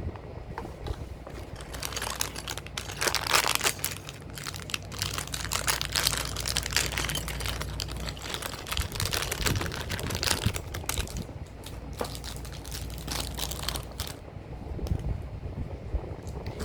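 Small plastic Lego pieces being handled, with rapid irregular clicking and rattling and some crinkling, busiest through the middle and easing off near the end.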